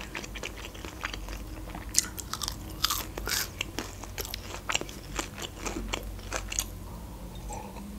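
Someone chewing crispy breaded fried shrimp with the mouth closed: repeated crunching with sharp crackles, thickest about two to three and a half seconds in.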